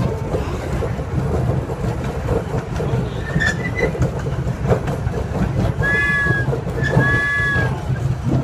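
Ride-on miniature train rolling along its track with a steady low rumble and light clicking of the cars. Two short high-pitched tones sound about a second apart near the end.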